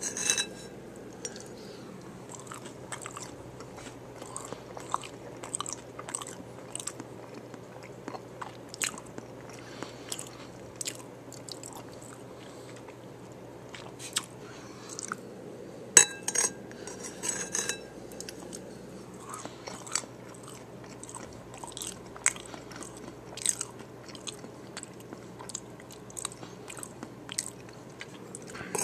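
Close-miked chewing of a taco bowl: slow, irregular crunches and wet mouth clicks, with a loud bite into the hard tortilla shell about sixteen seconds in, followed by a couple of seconds of dense crunching.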